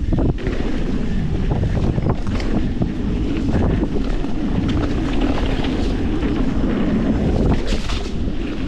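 Wind buffeting an action camera's microphone as a YT Industries Capra mountain bike descends a rough dirt trail, with a steady low rumble of tyres on the ground and constant small clicks and rattles from the bike over bumps.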